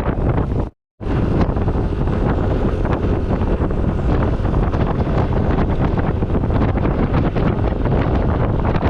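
Heavy wind buffeting the microphone of a camera riding on a moving motor scooter, loud and steady. The sound drops out completely for a moment about a second in.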